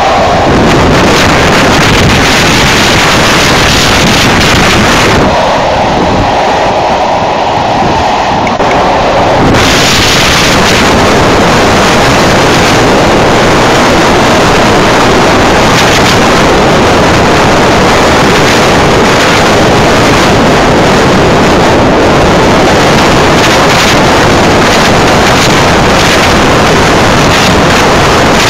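Moving passenger train heard from an open carriage window: a loud, steady rush of wind buffeting the microphone over the train's running noise, turning brighter and hissier about a third of the way in.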